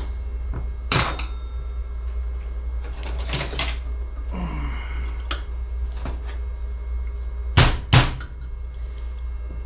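Metal parts of a Quadrajet carburetor being handled and fitted together during reassembly: a few sharp clinks and knocks, two close together near the end, over a steady low hum.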